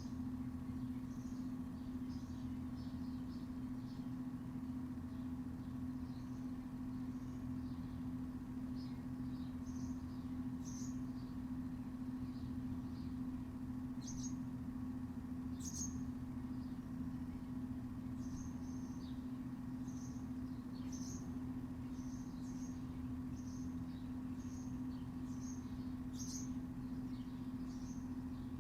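Small birds chirping in short, high calls throughout, over a steady low mechanical hum.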